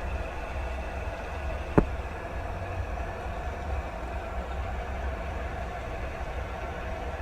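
Steady rain with a heavy low rumble under it, and a single sharp click about two seconds in.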